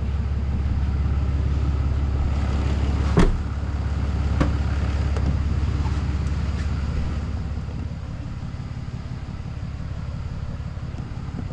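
A vehicle engine running steadily with a low hum, with a sharp knock about three seconds in and a few lighter clicks after. It gets somewhat quieter about seven seconds in.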